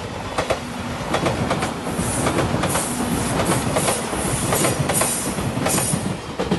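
JR Shikoku 8000 series electric limited-express train (Anpanman livery) passing close at speed: a rapid clickety-clack of wheels over rail joints under a steady hiss of rail and air noise.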